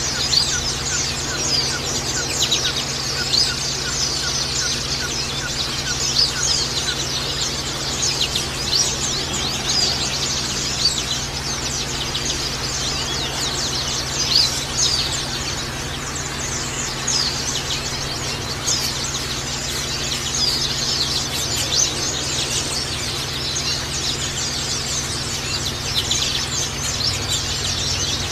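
A flock of white-eyes (pleci) chirping all at once: a dense, unbroken chatter of many short, high calls overlapping one another.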